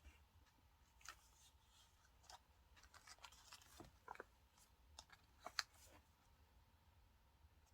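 Faint paper and stationery handling: scattered small clicks and brief rustles of paper and stickers, with one sharper click about five and a half seconds in.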